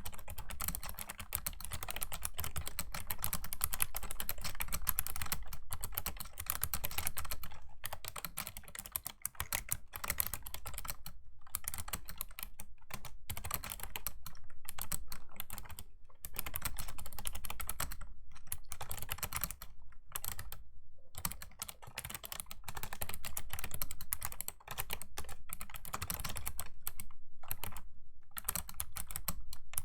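Fast typing on a Razer Ornata Chroma V2 mecha-membrane keyboard: a dense, continuous stream of clicky keystrokes in runs, broken by a few short pauses.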